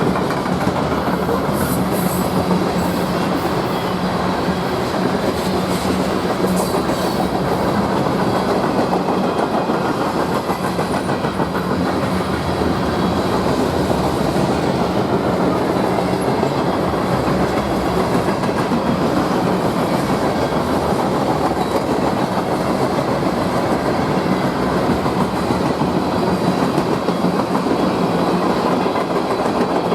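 A train's cars rolling steadily past, their wheels clicking over the rail joints.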